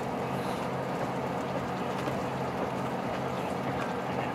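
Cabin noise of a KiHa 183 series diesel express train under way: a steady low engine hum under an even rush of running noise.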